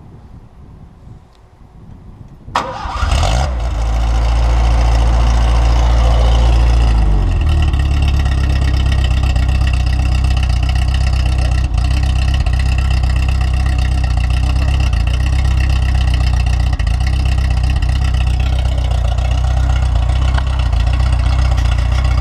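SEAT 850 rally car's rear-mounted four-cylinder engine starting from cold: it catches about two and a half seconds in and runs at raised revs for a few seconds. About seven seconds in the revs drop and it settles into a steady idle.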